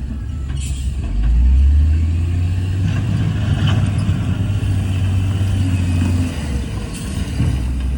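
Heavy diesel engine of earthmoving machinery running, its low drone rising about a second in and easing back about six seconds in, with short hisses near the start and near the end.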